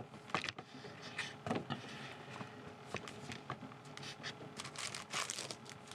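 Irregular rustling and soft clicks of Yu-Gi-Oh trading card packs and cards being handled, with a busier patch of rustling about five seconds in.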